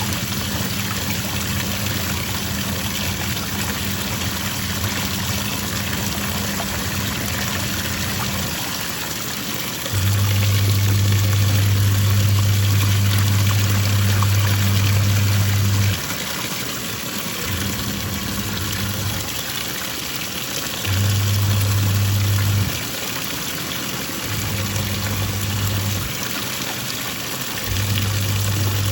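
Twin-tub washing machine's wash tub agitating: water sloshing steadily while the motor hums, cutting in and out every few seconds as the pulsator stops and reverses.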